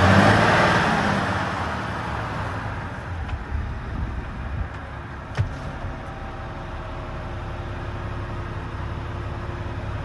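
Volvo FM 450 truck's 13-litre six-cylinder diesel engine running at idle. A louder rush of sound at the start dies away over about two seconds, and there is a single sharp click about five seconds in.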